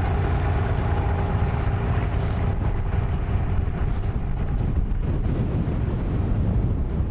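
Strong wind buffeting the microphone and waves slapping against a small boat as an outboard motor runs slowly for trolling, with a faint steady motor hum under the wind.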